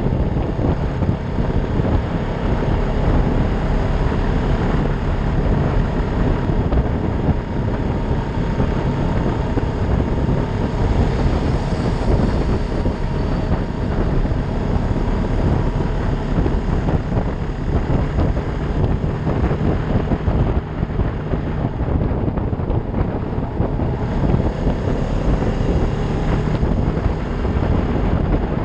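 Heavy wind buffeting the microphone on a moving motorcycle, with the Ducati Monster 620's air-cooled V-twin running steadily underneath.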